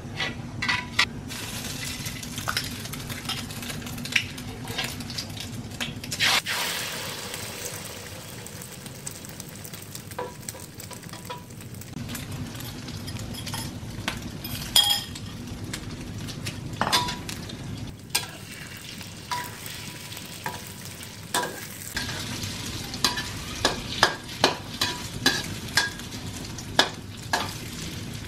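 Thai minced-pork omelette frying in hot oil in a wok, sizzling steadily, with a louder swell of sizzling about six seconds in. A metal spatula clicks and scrapes against the wok, most often near the end as the omelette is turned.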